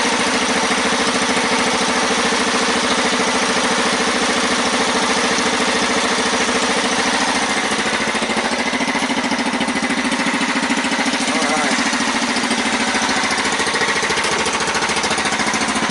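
Dragster's kick-started engine running steadily, with rapid, even firing pulses. It is warmed up and running well.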